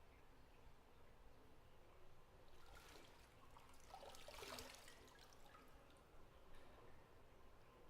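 Faint bathwater sloshing and trickling in a tub for a few seconds, starting a little over two seconds in, over quiet bathroom room tone.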